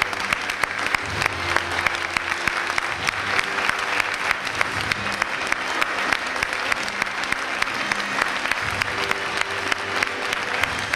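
Theatre audience applauding steadily, many hands clapping together.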